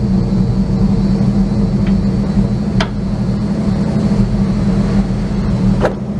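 The gasoline engine of a 1953 Studebaker M108 2½-ton 6x6 crane truck running steadily with a low, even hum. Two brief clicks sound over it, about three seconds in and near the end.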